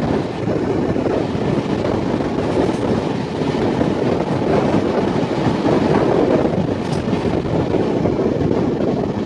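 Double-decker Uday Express passenger coaches running at speed, heard from the open coach doorway: steady wheel-on-rail running noise.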